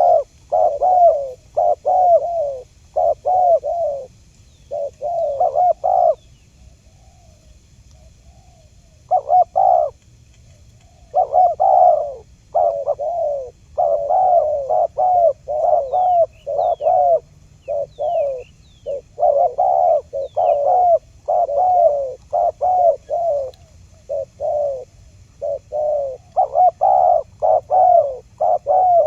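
Spotted dove cooing over and over in quick, rhythmic phrases, the call used to lure wild spotted doves. It breaks off for a few seconds about six seconds in, then carries on without pause. A few faint high chirps from a small bird come in about halfway through.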